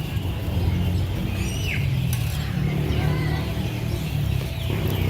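Busy market background: a steady low rumble, with a single short falling chirp a little under two seconds in.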